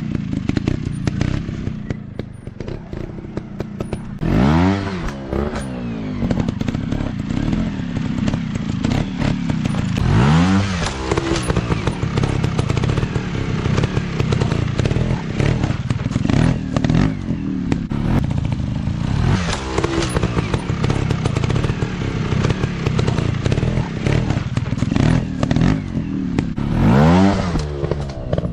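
Dirt bike engines running and revving hard, with sharp revs that climb in pitch about four seconds in, around ten seconds, near twenty seconds and near the end, over some clatter and thuds.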